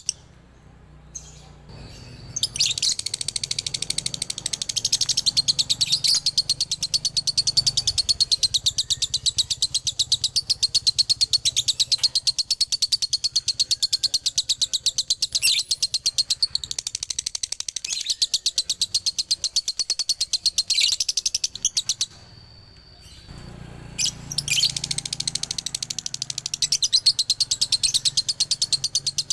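Male lovebird singing a long, rapid chattering trill (the 'ngekek' song, here the doubled 'dobelan' form), with high chirps repeated many times a second. It breaks off briefly at the start and again for a couple of seconds near the end before resuming.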